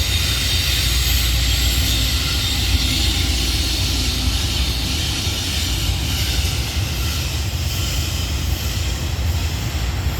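Passenger train running along the track: a steady low rumble with a hiss of wheels on rail, the hiss dying away over the last few seconds as the train draws off.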